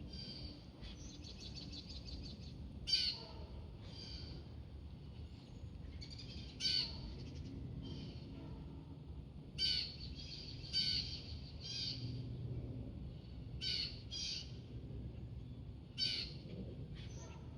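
Birds calling: short, sharp high calls repeated every second or two, over a steady low background rumble.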